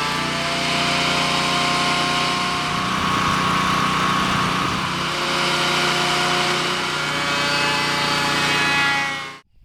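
Benchtop thickness planer running loudly, a steady motor whine whose pitch shifts slightly a few times as it works; the sound cuts off abruptly near the end.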